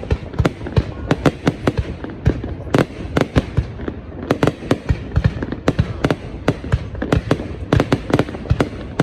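Aerial fireworks bursting in a rapid, unbroken string of sharp bangs and cracks, several a second.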